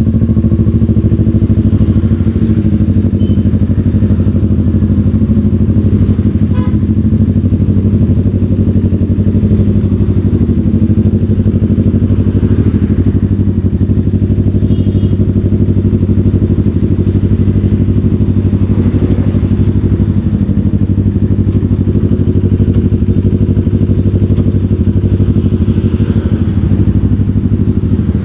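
Motorcycle engine running at a steady, low pace, heard loud and close from on the bike, as a constant low drone with no revving.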